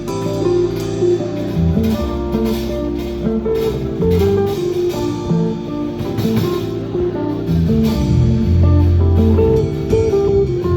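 Live band music led by guitar, with held notes and a moving bass line underneath.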